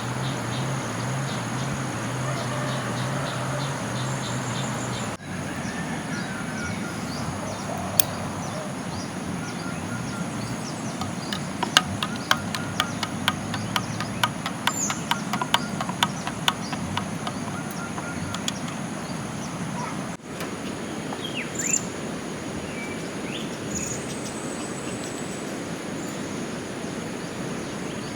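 Riverside forest ambience: a steady watery hiss, a high insect drone and a few bird chirps near the end. About halfway through comes a quick run of sharp taps.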